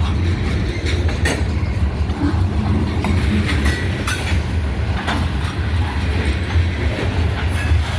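Freight train cars rolling past, the wheels clicking irregularly over rail joints above a steady low rumble, with wind on the microphone.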